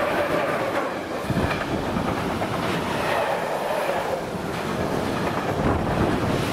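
Freight train of tank wagons hauled by a ČD Cargo electric locomotive passing close by at speed: a steady rush of wheel-on-rail noise with many irregular knocks from the wagons' wheels.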